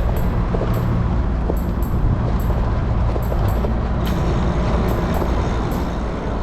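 Steady low wind rumble on the microphone of a moving bicycle, mixed with road noise.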